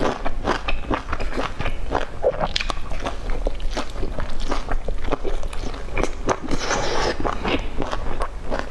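Close-miked chewing of a soft dumpling: an irregular run of wet smacking and clicking mouth sounds as it is bitten and chewed with the mouth full.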